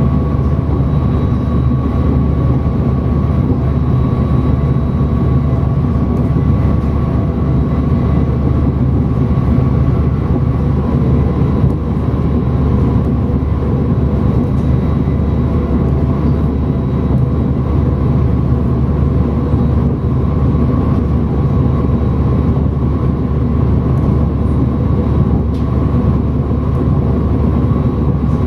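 Siemens Mireo class 463 electric multiple unit running at a steady speed, heard from inside the train: a constant deep rumble of wheels on rail with a faint, steady high whine over it.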